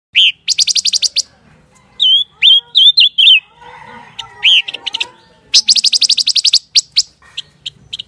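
Silver-eared mesia calling: short, curving whistled notes mixed with fast rattling trills of about ten notes a second, one trill near the start and a longer one past the middle.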